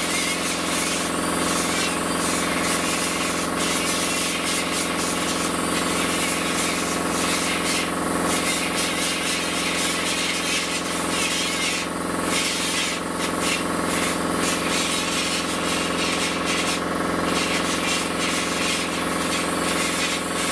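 Die grinder running continuously, cleaning rust off the metal of the car's windshield frame. Its steady motor whine runs under a harsh, scratchy hiss, and the hiss drops out briefly several times.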